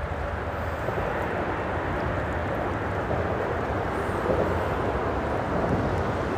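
Steady noise of freeway traffic running across the bridge overhead.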